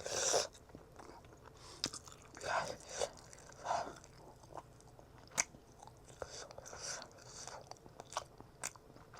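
Close-up eating sounds: a person chewing and biting food with wet mouth noises. Short noisy bursts come irregularly, with a few sharp clicks in between.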